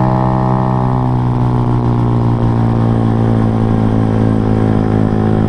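Modified Yamaha Y15ZR's single-cylinder four-stroke engine, with a UMA 62 big-bore block, R1 cam and R9 GP exhaust, running steadily under way on a hill climb. Its pitch eases down slightly over the first couple of seconds, then holds.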